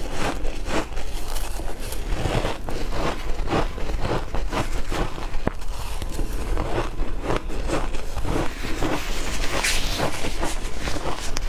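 Shaved ice being bitten and chewed: a steady run of crisp crunches, about two to three a second.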